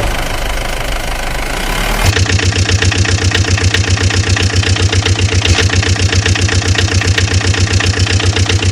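Engine running. About two seconds in, the sound switches abruptly to a steady idle with a rapid, even knock that stops sharply at the end.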